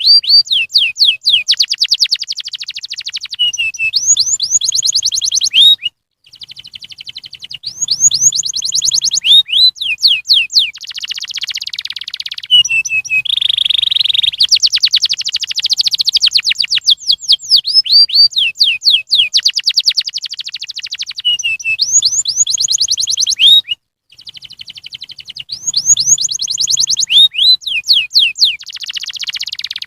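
Domestic canary singing a long song of rapid trills and rolling runs of high notes, breaking off briefly twice.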